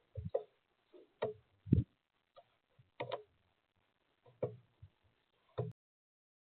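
Woodpecker pecking at sunflower seeds on a feeder: a string of irregular hard taps and knocks, stopping shortly before the end.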